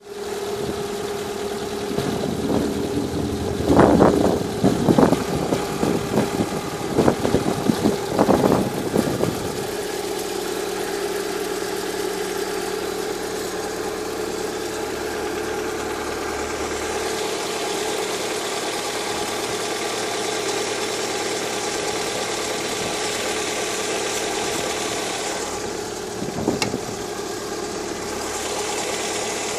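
Lada Kalina 2 engine idling in −15 °C cold, with a steady whistle from the alternator belt's tensioner roller. A run of loud, irregular knocks between about 2 and 9 seconds in, and another short one near the end, stand out over it.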